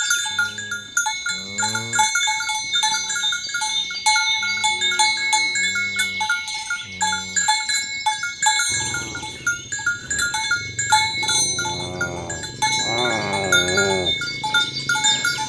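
Cowbells clanking steadily on a herd of walking cattle, with a cow mooing in a wavering call about two-thirds of the way through.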